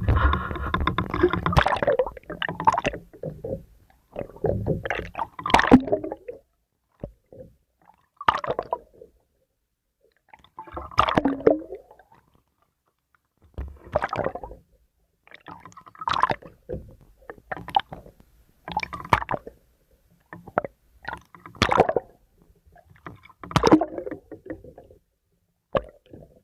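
Water sloshing and splashing against the hull of a small boat, coming in separate bursts about every two to three seconds.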